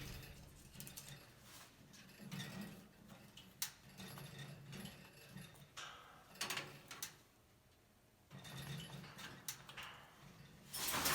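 A Cape parrot's beak clicking, tapping and scraping irregularly at a wooden foraging box as it tries to bite through the wood to the nuts, with a brief lull about two thirds of the way in and a louder scuffle near the end.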